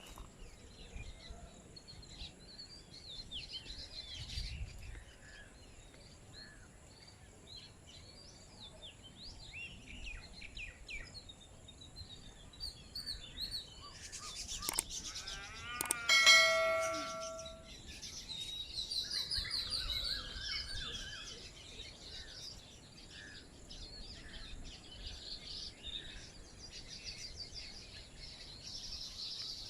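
Wild birds chirping, trilling and calling from several directions. About halfway through, one louder, clear ringing tone holds for about a second and a half, the loudest sound here.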